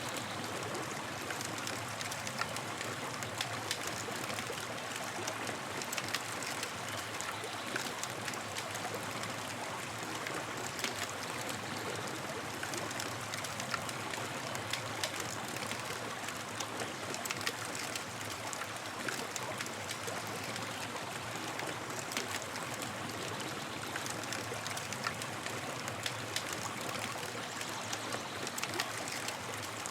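Campfire burning, crackling with frequent small pops over a steady hiss.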